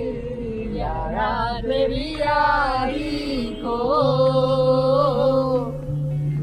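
A Hindi song playing: a voice sings drawn-out, gliding phrases over a steady accompaniment, with one long held note a little after the middle.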